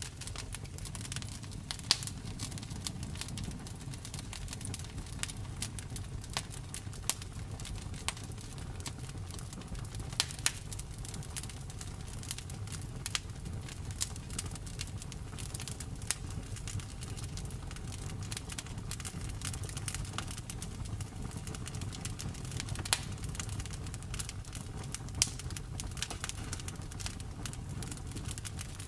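Wood fire burning in a fireplace: a steady low rumble of flames with constant small crackles and a few sharper pops of the logs.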